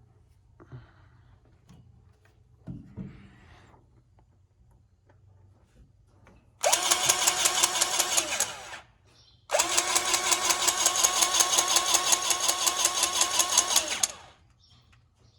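Powered grease gun running in two bursts, about two seconds and then about four and a half, its motor whirring with a quick regular pumping pulse as it forces grease into a drive-shaft U-joint zerk.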